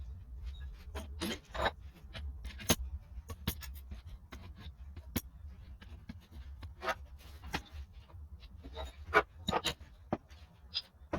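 Irregular clicks, clinks and scrapes of hand tools and metal parts being handled, over a low steady hum.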